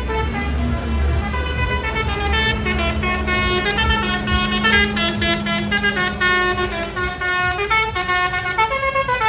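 Tractor engines running with a low rumble that fades about four seconds in, under a continuous run of changing pitched horn notes.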